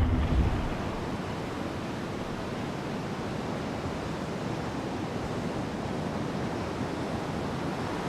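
Steady, even rushing noise with no distinct events, of the kind made by surf or wind. A louder low rumble fades out about half a second in.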